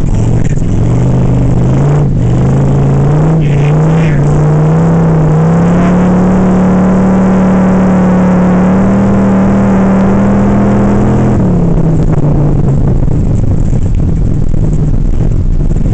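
Ice-racing car's engine heard from inside the cabin, climbing in revs over the first six seconds, held high, then dropping back about two-thirds of the way through.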